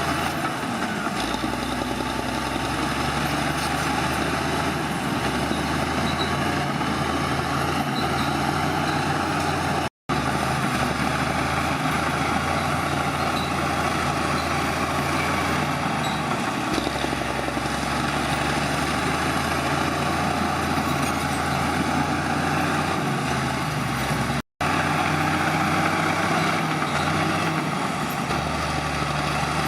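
Heavy diesel machinery engines running steadily, the low engine note stepping up and down with load. The sound cuts out to silence twice for a moment, about ten seconds in and again near twenty-four seconds.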